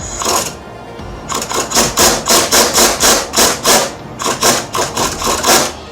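Rapid run of short metallic strokes, about four a second, from a tool working a new U-joint bearing cap into a driveshaft yoke. The strokes come in two runs with a brief pause near the middle.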